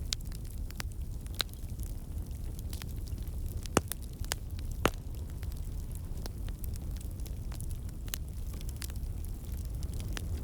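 Wood fire crackling in a fireplace: a steady low rumble of flame with scattered sharp pops, two of them louder about four and five seconds in.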